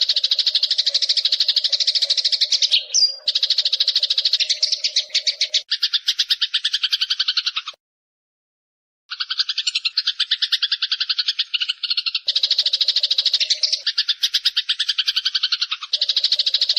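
Eurasian tree sparrows chirping in a fast, unbroken chatter of many short, repeated chirps. It breaks off abruptly into about a second of silence halfway through, then resumes.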